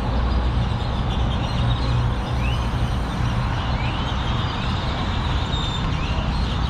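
Steady low rumble of vehicle engines and traffic, with a few short rising chirps heard over it.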